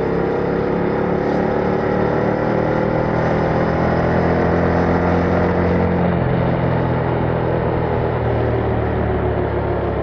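A 2021 Yamaha MT-07's parallel-twin engine running through its stock exhaust under way, a steady engine note that rises slightly over the first few seconds and then settles.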